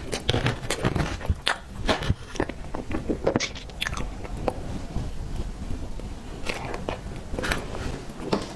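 Someone eating tiger skin roll cake, biting and chewing with wet mouth clicks and smacks that come in clusters, with a quieter spell about halfway through.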